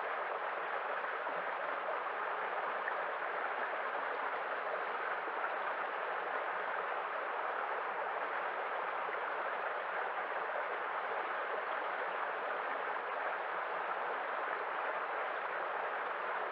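Steady running water, an even rushing hiss with no change in level.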